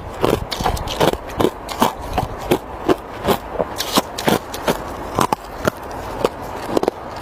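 Ice being chewed and crunched between the teeth, close up, with crisp crunches in a steady chewing rhythm of about two to three a second.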